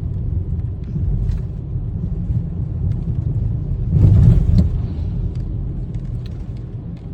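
Road noise inside a moving car: a steady low rumble from the tyres and engine, with a brief louder rush about four seconds in.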